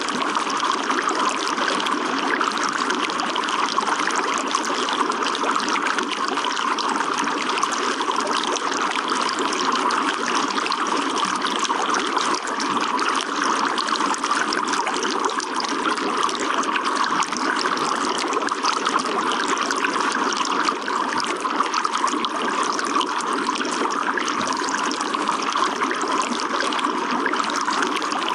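Running water trickling steadily, an even continuous rush with no breaks.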